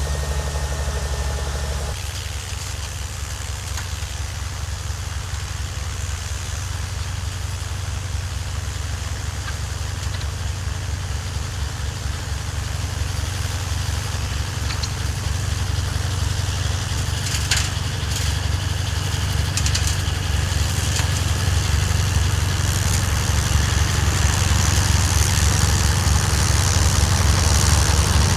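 An engine runs steadily, its note changing about two seconds in and growing slowly louder, with a hiss rising towards the end. A single sharp clank comes about halfway through.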